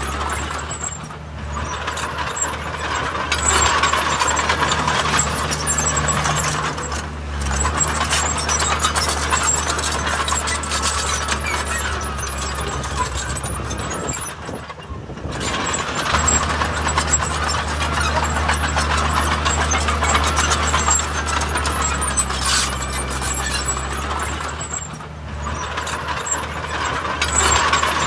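Heavy diesel earthmoving machinery working, its engine running steadily under a dense metallic clatter. The sound briefly drops off and picks up again about four times.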